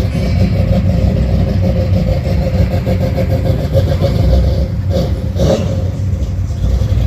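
Car engine running with a deep, steady rumble and a rapid pulsing beat, with a brief louder swell about five and a half seconds in.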